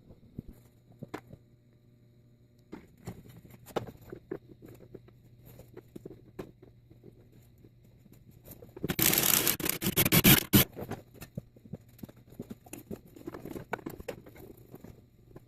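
Tools working on metal: scattered clicks and knocks, with one loud noisy burst about a second and a half long a little past the middle.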